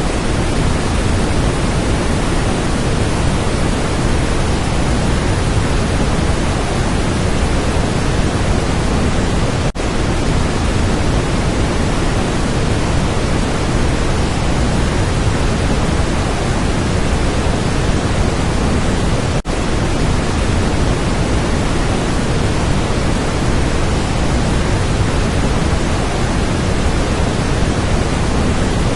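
Waterfall pouring: a loud, steady, thunderous rush of falling water, heaviest in the low end, with two momentary breaks about ten and twenty seconds in.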